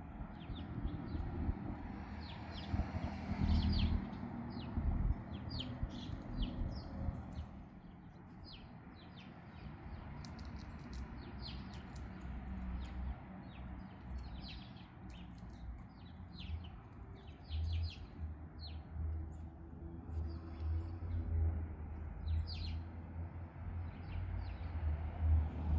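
Small wild birds chirping: many short, quick chirps, scattered irregularly throughout, over a low steady outdoor rumble.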